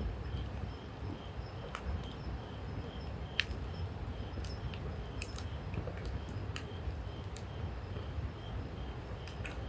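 Wood campfire burning with scattered sharp crackles and pops over a low, steady rumble of the flames. A faint high chirp repeats evenly about twice a second behind it.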